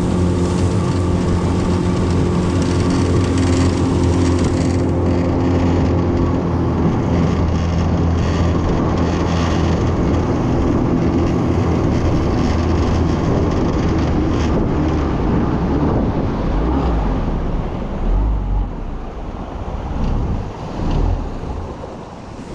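Small boat's motor running hard at full throttle, with wind rushing and buffeting the microphone. The engine's steady tone fades into the wind noise about a third of the way in, and the wind gusts toward the end.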